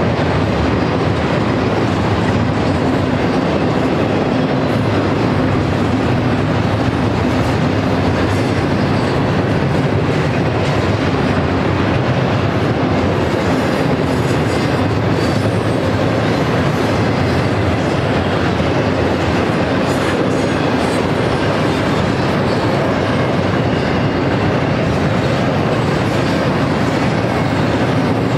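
Double-stack intermodal freight train's well cars rolling past, steel wheels clattering on the rails in a steady, unbroken sound.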